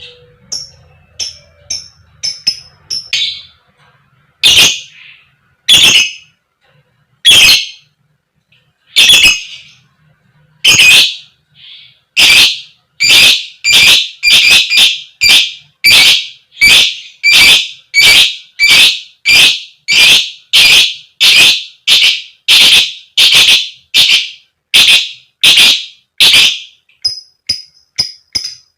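Lovebird giving repeated harsh 'koek' calls, the fighter lovebird's challenge call. The calls come about every second and a half at first, then settle into a steady run of about two a second. Fainter high chirps sound in the first few seconds and again near the end.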